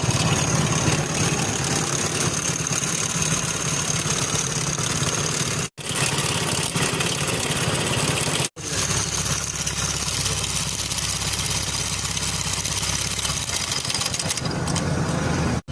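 Hero Splendor motorcycle's single-cylinder four-stroke engine idling steadily, with the timing chain noise that is the fault being shown. The sound cuts out briefly twice, about six and eight and a half seconds in.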